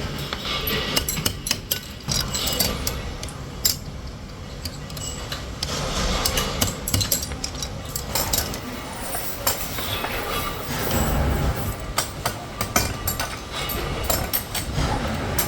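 Workshop clatter of steel parts: many irregular metal clinks and knocks, some close together, over a constant background noise.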